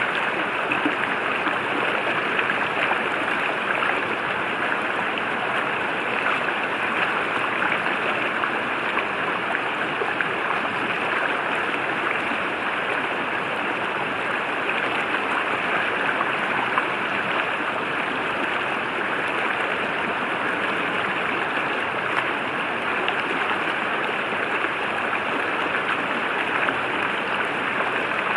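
River water flowing steadily over rocks, an even, unbroken rush.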